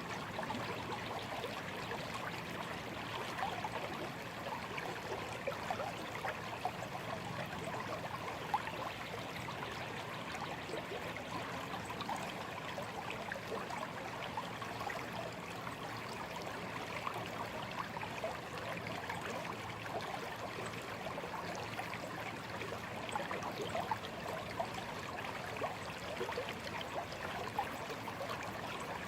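A small stream running and trickling steadily, with many small quick splashes and burbles over a continuous water rush.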